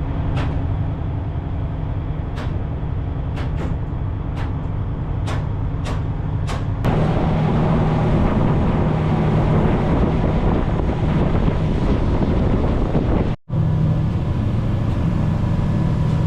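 Prawn trawler's diesel engine droning steadily while underway, with a few sharp clicks in the first seven seconds. About seven seconds in it gets louder, with more rushing noise over the drone, and it drops out for a moment near the end.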